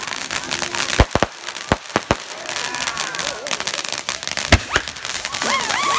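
Consumer aerial fireworks going off: a quick run of sharp bangs between about one and two seconds in and another bang a little after four seconds, over a continuous crackle.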